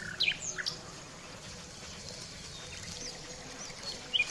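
Wild birds chirping: a quick run of short, sharp high calls in the first second, then a few faint high arched notes and more chirps near the end.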